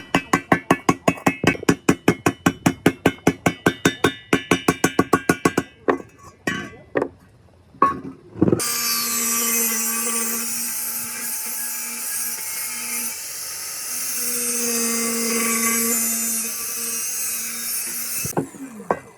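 A fast, even run of ringing hammer-like strikes, about seven a second, for the first six seconds, then a few scattered knocks. After that a power tool runs steadily for about ten seconds, its pitch dipping slightly midway, and cuts off near the end.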